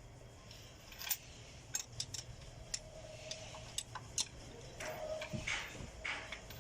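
A few irregular sharp clicks and light knocks, like small hard objects being handled, over a faint steady hum, with some rustling near the end.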